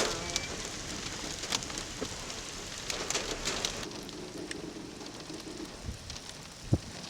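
Rain falling steadily, a constant hiss with scattered sharp ticks of drops striking.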